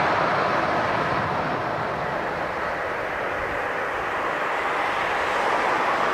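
Jet airliner engine noise: a steady rushing sound that eases slightly through the middle and swells again near the end.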